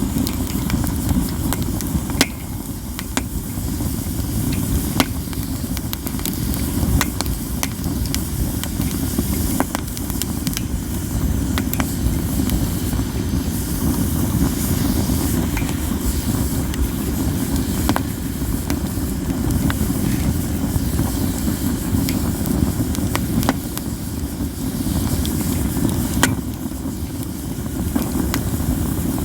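Campfire of katsura wood burning: frequent crackling with scattered sharp, snapping pops over a steady low rumble.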